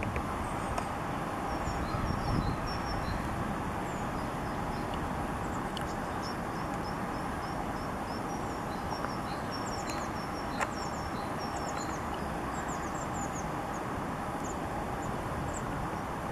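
Small birds chirping with many short, high notes and quick falling twitters over a steady low background rumble, with one sharp click partway through.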